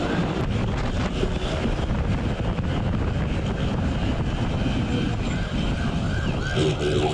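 Police siren yelping in quick, repeated rising-and-falling sweeps over a heavy rush of wind and engine noise from a moving motorcycle. The siren fades in the middle and comes back strongly near the end.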